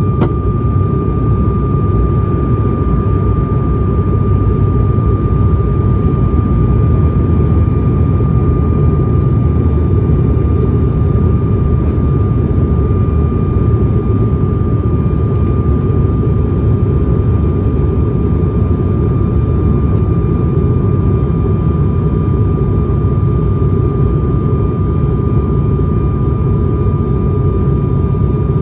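Cabin noise of an ATR 72-500 turboprop airliner in flight: a loud, steady drone from the engines and propellers, a heavy low rumble with a steady high whine over it, unchanging throughout.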